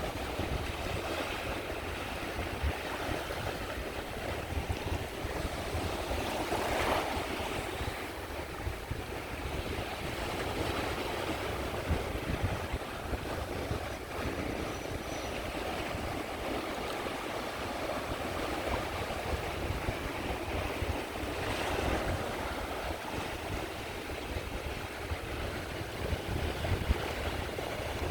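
Sea waves breaking and washing onto the shore in a steady rush, swelling louder about seven seconds in and again a little past twenty seconds. A low rumble of wind on the microphone runs underneath.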